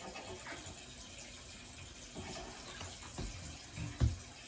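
Water running steadily from a tap, with a couple of soft low thumps near the end.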